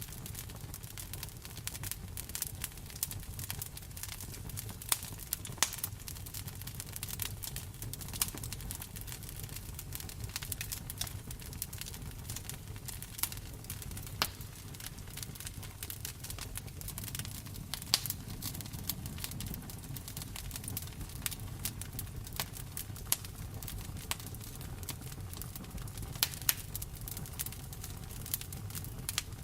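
Wood fire in a fireplace crackling, with frequent irregular sharp pops, a few louder than the rest, over a steady low rumble.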